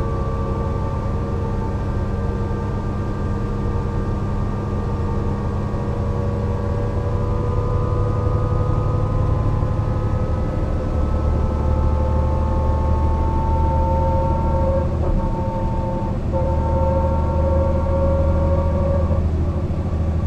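Mercedes-Benz O 405 NÜ city bus driving, its drivetrain giving a heavy low rumble and a whine that climbs slowly in pitch as it gathers speed. The rumble gets louder about halfway through.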